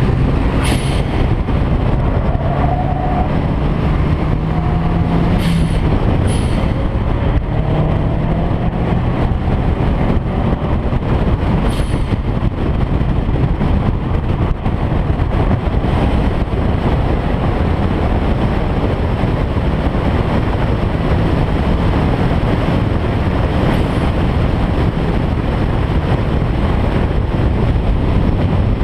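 A car being driven hard: its engine note rises over the first few seconds, then gives way to a steady, loud rush of engine and road noise. A few sharp clicks come through in the first twelve seconds.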